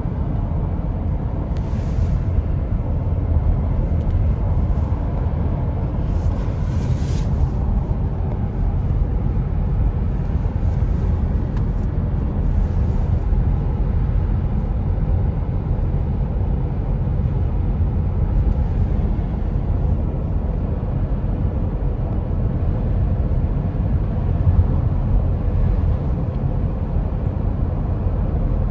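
Road and wind noise inside the cabin of a Tesla Model X at freeway speed: a steady low rumble with no engine sound, and a few brief hissing swells, the longest about six to seven seconds in.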